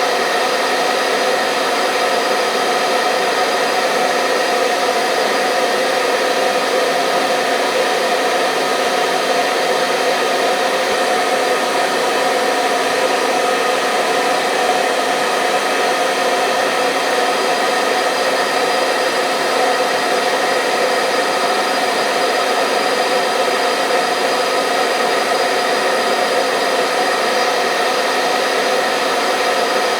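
Electric hair dryer running steadily: an even rush of blown air with the steady whine of its motor, unchanging throughout.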